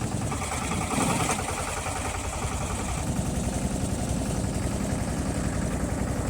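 Motorboat's engine running steadily, an even low pulse throughout.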